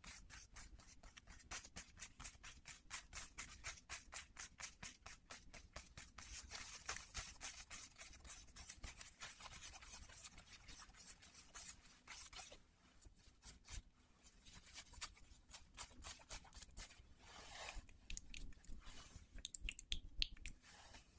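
Denim jeans being scratched in quick, even strokes, about four a second, for the first half. The scratching then slows into irregular rubbing and scratching of the fabric.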